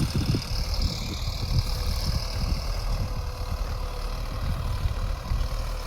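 Sonalika Tiger 65 DI CRDI tractor's diesel engine running steadily with a low rumble and a faint steady hum.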